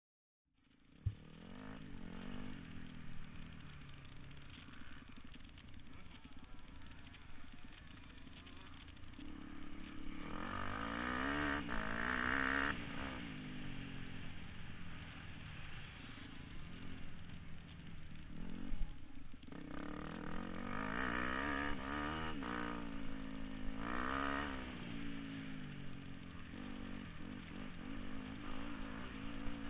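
Motocross bikes' engines running on a dirt track, revving up and down so the pitch rises and falls over and over, loudest in two spells near the middle and about two-thirds through. The sound starts abruptly about half a second in.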